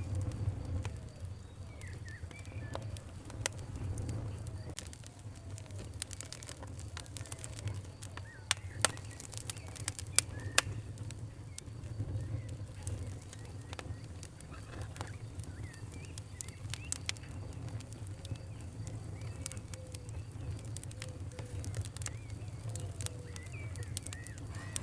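Wood fire crackling with irregular sharp pops over a low steady rumble, the loudest pops a few in a row about a third of the way in. Faint bird calls sound in the background.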